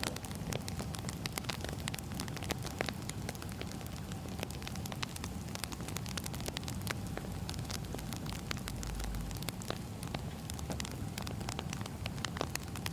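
Firewood burning, crackling: frequent irregular sharp snaps and pops over a steady low rumble and hiss.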